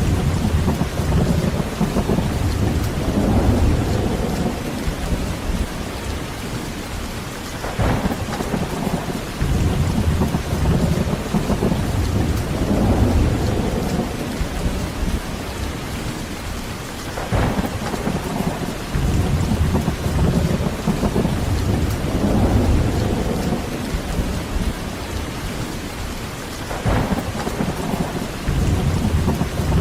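Heavy rain falling steadily through a thunderstorm. Low rolling thunder swells and fades about every nine seconds, with a brief sharp crack at about 8, 17 and 27 seconds in.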